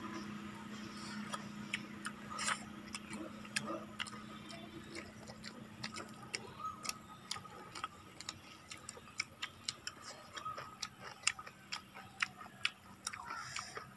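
Close-up eating sounds of people chewing rice and chicken with their mouths open: irregular sharp wet clicks and lip smacks, getting more frequent about halfway through, over a faint steady hum.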